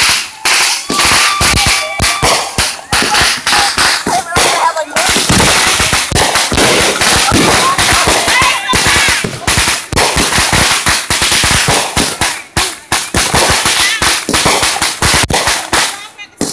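Fireworks going off: aerial shells launching and bursting, with a rapid, continuous run of sharp bangs and crackles.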